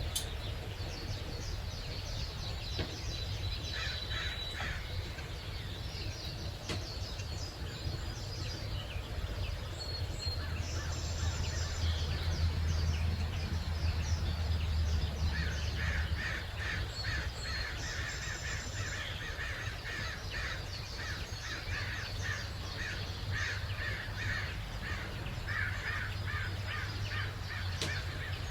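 Wild birds calling and singing at dawn, with a dense run of repeated short, harsh calls through the second half, over a steady low rumble.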